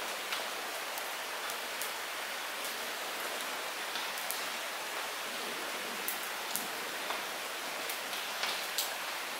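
Light rain falling: a steady hiss with scattered louder drops striking close by, about one every second or so.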